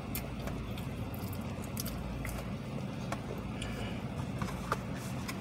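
Quiet chewing of a biscuit with scattered soft mouth clicks, over the steady low hum of the car's idling engine.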